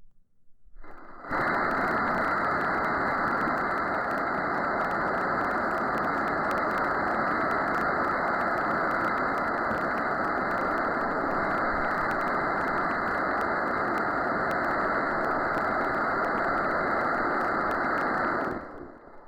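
Rocket engine firing: a loud, steady rushing noise that starts abruptly about a second in, holds level for about seventeen seconds, then dies away near the end.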